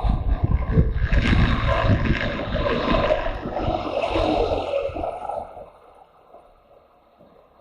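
Motorcycle running on the road with wind rushing over the microphone. The noise falls away sharply about five and a half seconds in, leaving a faint hum.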